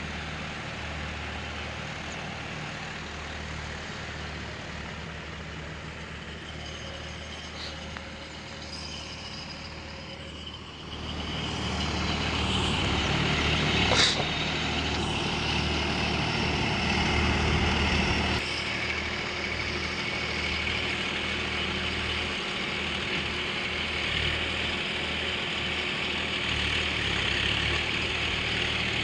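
Diesel tractor engine running steadily, growing louder partway through, with one short sharp noise near the middle.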